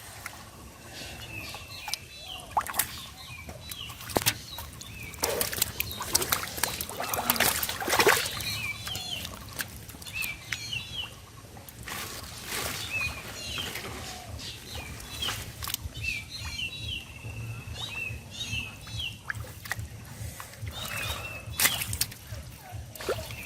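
Birds chirping over and over, with irregular splashes and rustles of water and water hyacinth as the fish is groped for by hand, over a steady low hum.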